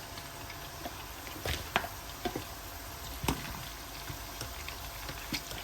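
Breadcrumbed chicken balls deep-frying in hot oil, a steady bubbling hiss. A few sharp clicks stand out over it, the loudest about three seconds in.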